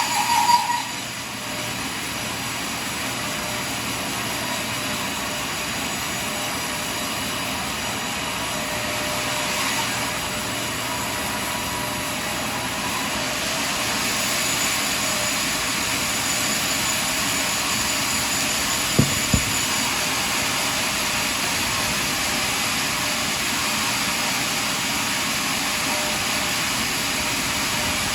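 Portable sawmill running steadily as its saw cuts through a large log, a constant machine noise with a faint steady whine. A short loud burst comes right at the start, and two sharp knocks come about two-thirds of the way through.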